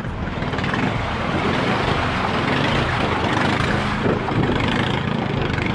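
A motor engine running steadily under a broad rushing noise.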